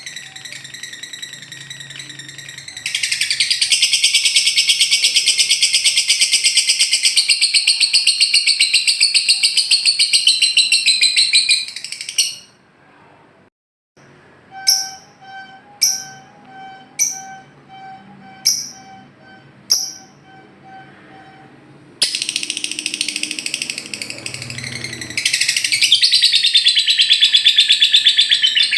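Lovebird 'ngekek', a long, very fast high chattering trill that stops about twelve seconds in. A string of short sharp chirps follows, about one a second. The rapid trill starts again a few seconds before the end.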